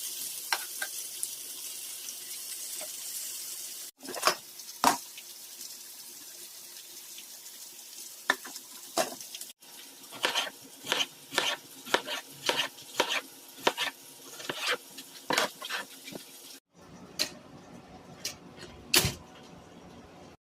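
Food sizzling in a pan, then, across several abrupt cuts, a series of sharp clinks and knocks of utensils against cookware and dishes, about two a second in the middle stretch.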